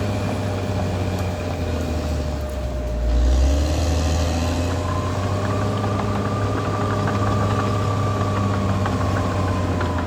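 Caterpillar D6R XL bulldozer's diesel engine running steadily, growing louder about three seconds in, with a thin high whine from about five seconds in.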